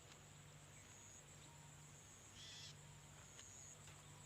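Near silence: faint outdoor ambience with a steady high-pitched tone and a low hum, and one brief faint call about two and a half seconds in.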